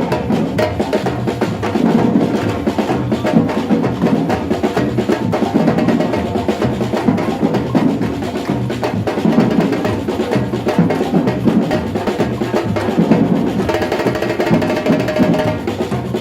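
Batucada samba percussion group playing a dense, driving rhythm on drums, snares and wood-block-like percussion.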